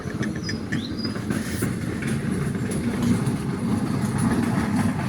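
A steady low rumble, with a few faint clicks and two or three short, high chirps in the first second or so.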